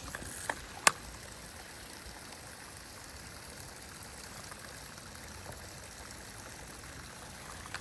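Creek water running steadily, with a few sharp clicks in the first second, the loudest just under a second in.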